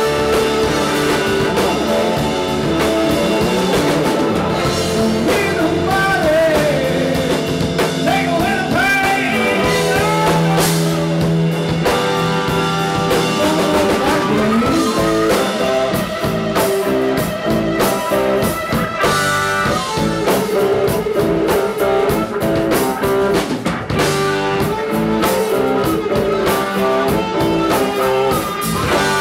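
Electric blues-rock band playing live: electric guitar, bass and drum kit, with a lead line of bent, sliding notes over a steady beat.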